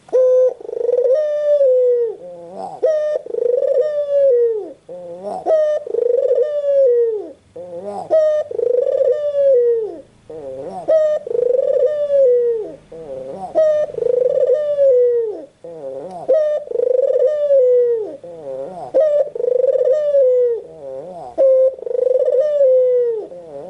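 White Barbary dove (puter putih) cooing over and over, about one coo every two seconds, each a short note followed by a longer arching note that falls away at the end.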